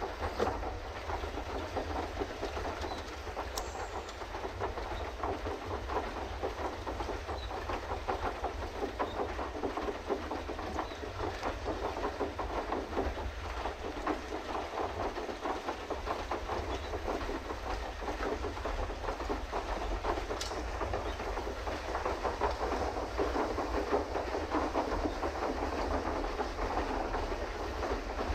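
Pedal boat under way: steady churning of its paddle drive in the water with a fast, continuous clatter, over a low rumble.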